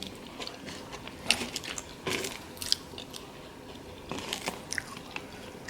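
A person chewing a mouthful of food close to the microphone, with irregular soft wet mouth clicks and smacks.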